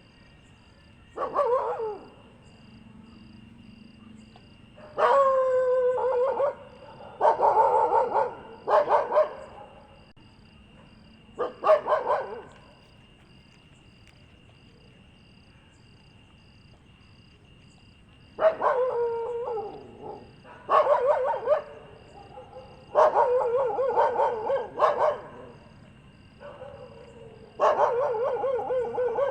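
Dogs giving drawn-out, pitched whining cries that bend up and down: about nine separate calls, each lasting up to a second or two, with gaps between them.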